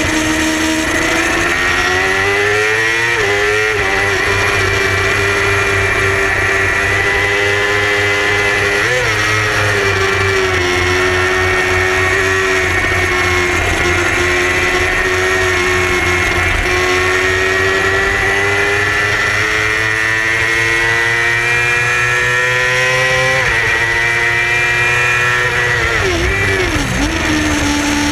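Yamaha R6 inline-four 600 cc sport-bike engine at racing revs, heard from on board. Its note climbs steadily in each gear and drops sharply at each shift, with a run of quick throttle blips near the end as it downshifts for a corner. Steady rushing hiss underneath.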